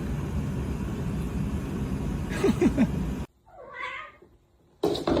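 Steady outdoor noise with three short falling pops from displaying male sage grouse about two and a half seconds in. Then it cuts off abruptly, a single cat meow follows, and a sudden loud noise comes near the end.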